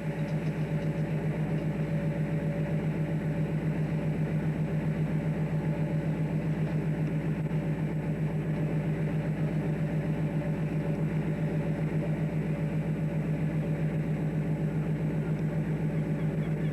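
Fishing boat's engine running steadily on board: a low, even throbbing drone with a fast regular pulse.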